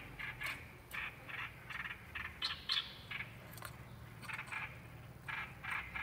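A small brown bird giving a run of short, harsh, chattering calls, about three to four a second, with a pause of about a second just past the middle.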